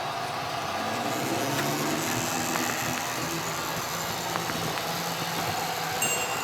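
Model train running on the layout: a steady motor hum with a few faint clicks, such as wheels passing over rail joints.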